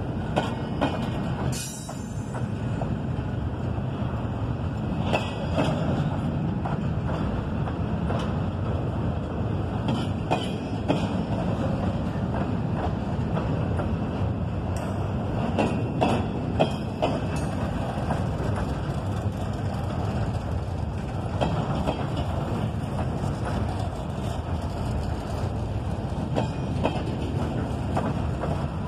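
CSX double-stack intermodal train's well cars rolling past: a steady rumble with occasional clanks of wheels over the rails. A brief high squeal comes about two seconds in.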